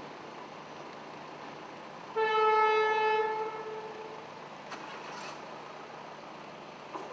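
Single blast of an NSB Class 69 electric train's horn: one steady tone lasting about a second and a half, starting about two seconds in, over the steady noise of the train.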